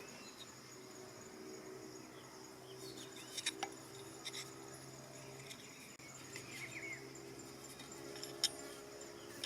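Insects trilling steadily and high-pitched, with a low steady hum underneath and a few sharp clicks. The sharpest click comes near the end.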